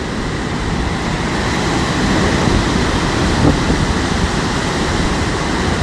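Storm wind buffeting the microphone over the rush of sea surf: a loud, steady roar with no single event standing out.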